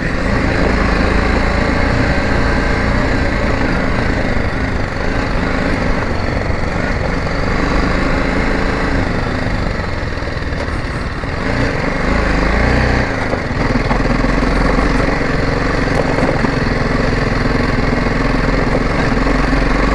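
Motorcycle engine running steadily, its pitch dropping and rising again about two-thirds of the way through.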